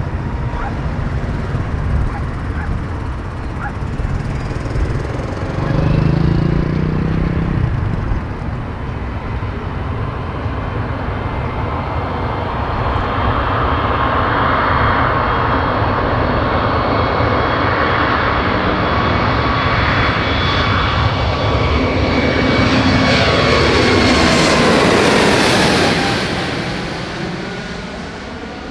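Airbus A321neo's twin turbofan engines at takeoff thrust, a steady whine over a broad jet noise that grows louder as the jet runs up the runway toward and over the listener. It is loudest about 25 seconds in, then the whine drops in pitch and the sound fades as the aircraft passes.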